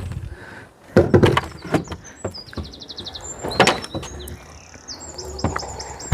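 Sharp wooden-sounding knocks and clatter, the loudest about a second in and again past the middle, with a small bird's rapid, high trilling chirps from about two seconds in.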